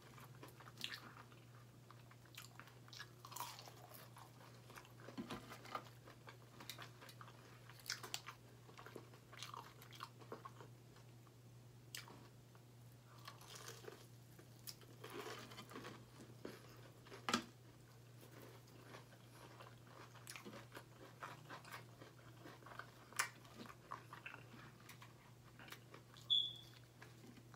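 Close-up chewing and biting of fried chicken tenders dipped in sauce: scattered faint crunches and wet mouth sounds, with a few sharper bites. A faint steady low hum sits underneath.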